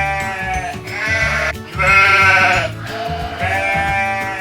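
Domestic sheep bleating, a run of drawn-out wavering calls about one a second, over background music.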